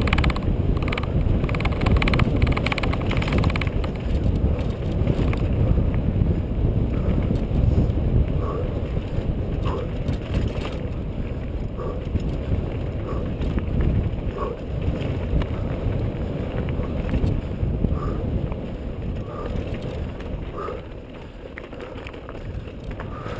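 Wind buffeting an action camera's microphone over the rumble of a mountain bike riding down a dirt trail, with short faint squeaks every second or two.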